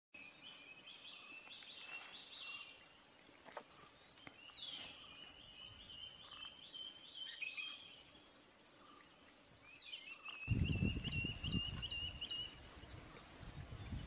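A small bird singing three quick, trilled, chattering phrases a few seconds apart, with a faint steady high whine behind the first two. From about ten seconds in, a loud low rumbling noise comes in under the song.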